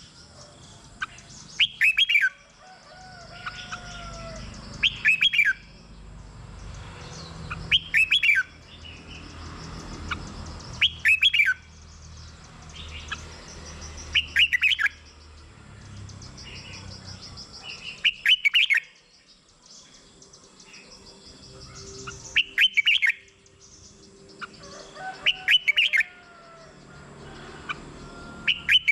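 Red-whiskered bulbul singing: short, loud whistled phrases repeated about every three to four seconds, with fainter chirps between them.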